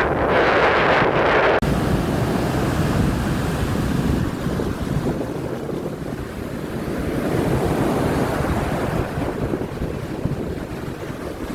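Rough surf breaking on a beach in a strong wind, with gusts buffeting the microphone. A brighter, hissing rush cuts off abruptly about two seconds in. After that, low rumbling wind and wave noise continues, swelling and easing.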